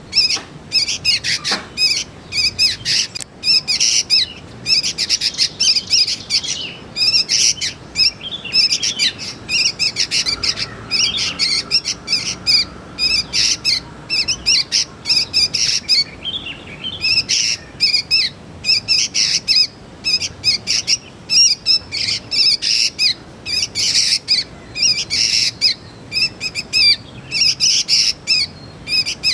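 Young sooty-headed bulbuls calling: a continuous run of rapid, short, harsh chirps with hardly a pause.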